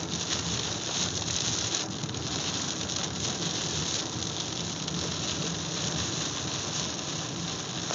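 Rain falling on a moving car's windshield and body, heard from inside the cabin over a steady low road rumble.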